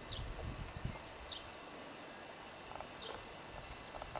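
Faint rural outdoor ambience with a small bird giving short, high, down-slurred calls about every second and a half. A low rumble sits under the first second.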